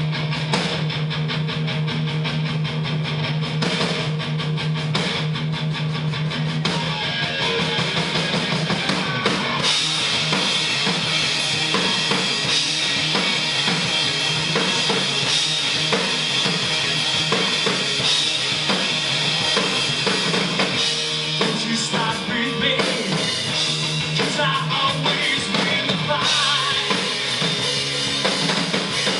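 Live rock band playing an instrumental passage: electric guitar over a drum kit with bass drum. It opens on a held low note, then gets fuller and brighter about ten seconds in.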